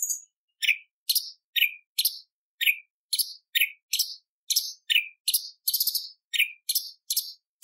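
Cucak cungkok leafbird singing a fast, unbroken run of short, sharp high chips, about two a second, each note dropping quickly in pitch.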